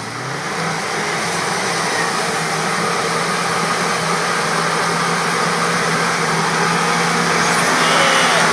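UAZ off-road vehicle's engine picking up revs and then running steadily under load as it drives forward, growing slowly louder.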